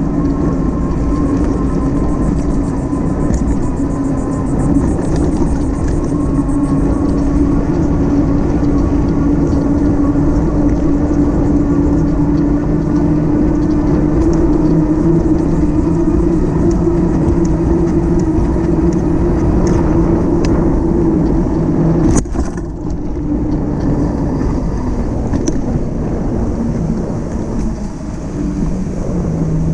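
Steady wind and road noise from riding a bike, under a steady motor-like hum that rises slowly in pitch. There is a sharp break with a click about 22 seconds in, after which the hum is fainter.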